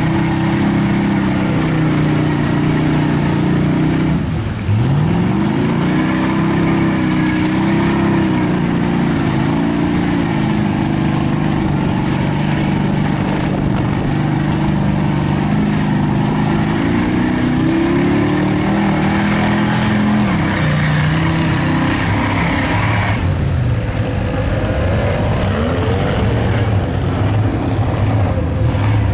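Big lifted mud truck's engine running hard under load in deep mud, its revs swinging up and down. About four and a half seconds in the revs drop sharply and climb straight back, and near the end the engine sound turns duller and lower.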